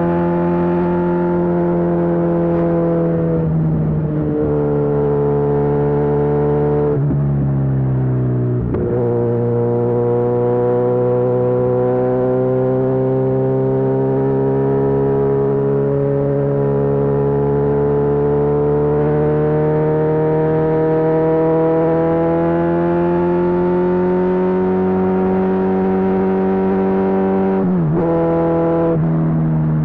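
Kawasaki Z1000SX inline-four engine running under load through a Lextek full aftermarket exhaust. The note breaks briefly at gear changes, about four seconds in, around seven to nine seconds, and twice near the end. Between the second and third group of changes it holds one long, slow climb in pitch as the bike accelerates in a single gear.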